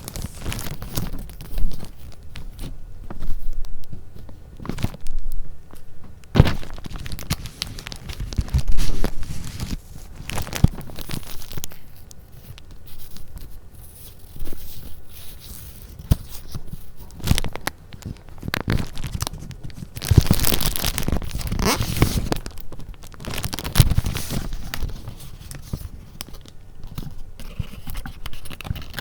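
Paper being handled close to the microphone: irregular rustling, crinkling and light taps, with a longer, louder stretch of rustling about twenty seconds in.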